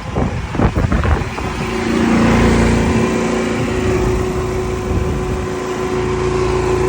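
An engine running steadily with a hum; it grows louder about two seconds in and then holds even. A few irregular knocks come before it.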